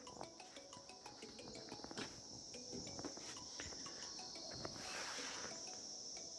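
Crickets chirring: a steady, faint, high-pitched insect drone, with scattered small clicks and knocks and a brief rush of noise about five seconds in.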